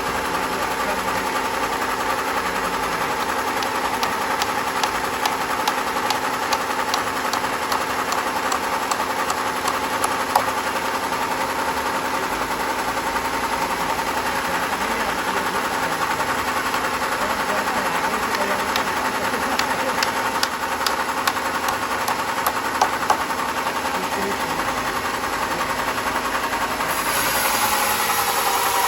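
Sawmill machinery running steadily, a constant motor hum with scattered light clicks; a hiss rises near the end.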